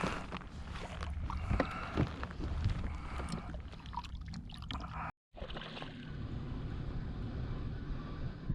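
Water and wind noise around a kayak, with scattered knocks and clicks during the first five seconds. The sound cuts out briefly about five seconds in, then steady water wash resumes.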